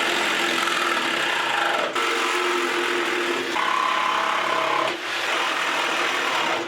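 A small power tool running steadily with an abrasive rasping hiss, working at a seized caster. Its pitch shifts a couple of times and it dips briefly twice.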